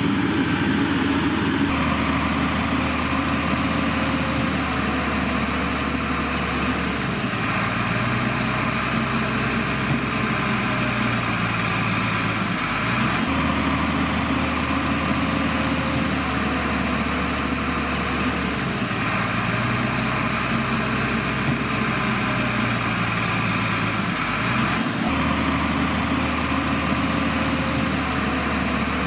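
Shantui bulldozer's diesel engine working, its note stepping back and forth between a lower and a higher pitch every five or six seconds, with a faint gliding whine at the changes.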